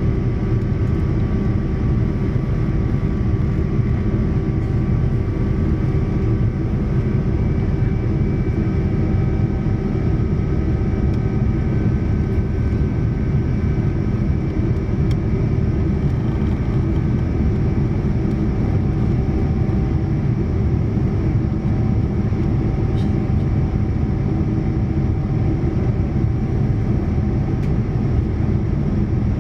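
Boeing 787-9 Dreamliner cabin in flight: a steady roar of airflow and the Rolls-Royce Trent 1000 engines, with several faint steady engine tones above it.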